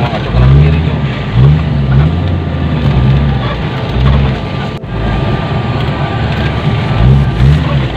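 Off-road vehicle's engine heard from inside the cab, its revs rising and falling about once a second as it drives a rough dirt track, over steady driving noise. There is a brief drop-out about halfway through.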